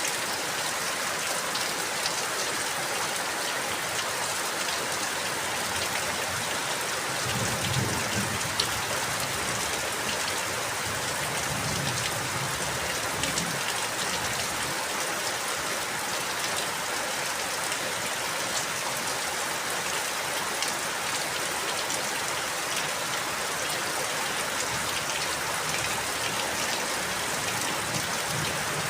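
Steady rain falling, an even hiss with scattered drop ticks, and a soft low rumble for a few seconds about a third of the way in.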